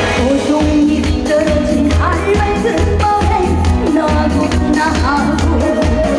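Live trot song: a woman singing with sliding, ornamented notes over a band backing track with a steady bass beat.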